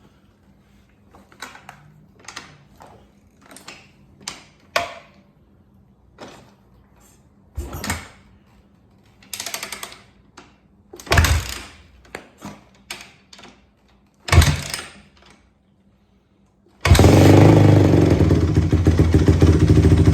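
Cold start of a 2004 Honda CRF250R's four-stroke single-cylinder engine, not run for a week: scattered clicks and knocks, then four kicks that turn it over without catching, and near the end it fires and keeps running loud.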